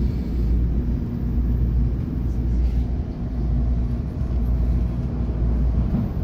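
Cabin noise of a moving electric train: a steady low rumble of wheels and running gear on the rails, with a faint steady hum underneath.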